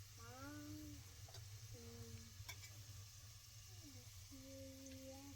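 A faint high voice in drawn-out, sliding sing-song notes, over a steady low hum and a couple of light clicks.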